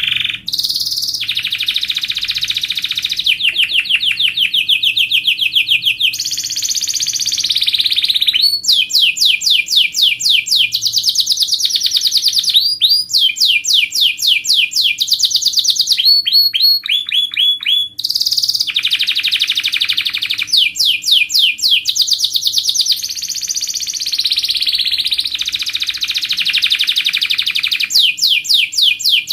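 Domestic canary in full song, an almost unbroken run of fast high trills and rolls that switches to a new trill every second or two.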